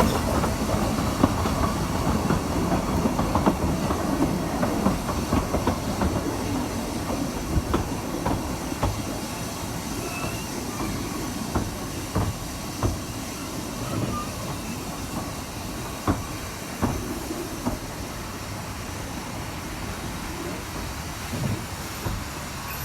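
Narrow-gauge train running on the rails, with wheels clicking over the rail joints amid a steady rumble, growing gradually quieter as it moves away.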